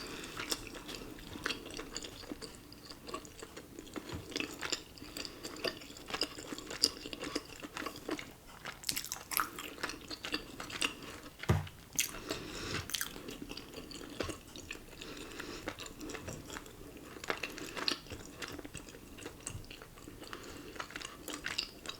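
Close-miked chewing and mouth sounds, irregular small clicks and crackles, with one louder knock about halfway through.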